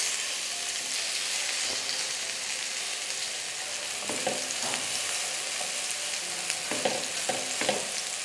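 Minced-chicken kebabs sizzling in shallow oil in a nonstick pan as they are turned over, with a few short clicks and scrapes of a spatula and tongs against the pan in the second half.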